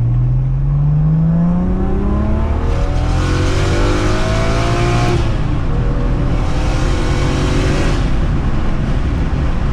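BMW 335i's single-turbo N54 inline-six accelerating hard, its pitch climbing steadily, then dropping about five seconds in at a gear change before climbing again more slowly. A strong hiss sits over the engine while it pulls.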